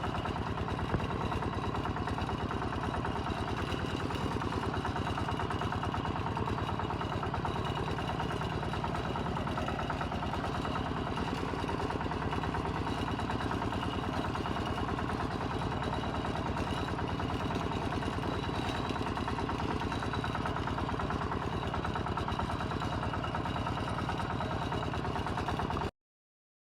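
Kubota M7040 tractor's diesel engine running steadily at an even pace, cutting off abruptly near the end.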